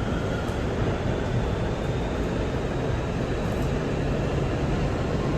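Steady running noise of a moving vehicle, with a faint high whine.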